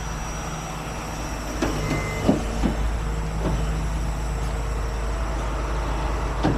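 Heavy truck engine idling steadily, with a few brief, faint voices about two seconds in.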